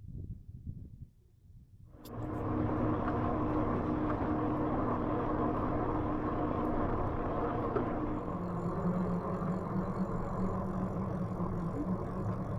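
Steady hum and rolling noise of an e-bike under way, its hub motor and tyres running on the trail. It starts suddenly about two seconds in, and the hum drops to a lower pitch about eight seconds in.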